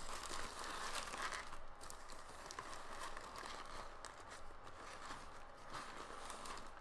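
Paper sandwich wrapper crinkling and rustling as a sandwich is unwrapped, busiest in the first second or two and lighter after.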